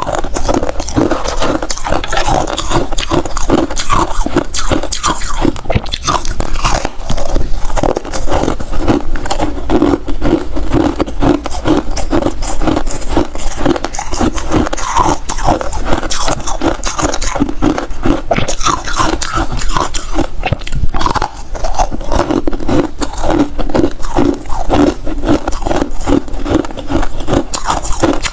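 Close-miked ice eating: a person biting and chewing hard freezer ice, with a continuous run of loud, dense crunches and crackles.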